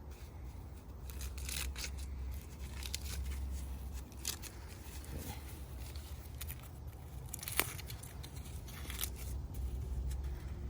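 Corn husks being torn and peeled off an ear of corn by hand: irregular crackling and rustling tears with small snaps, one sharper snap about two-thirds of the way through.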